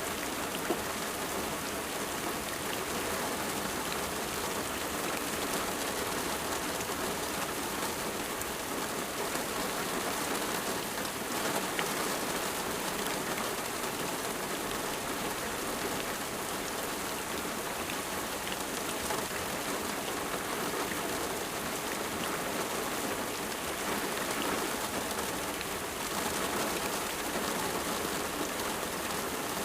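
Steady rain falling and pattering on a surface, an even hiss of drops that keeps on without a break.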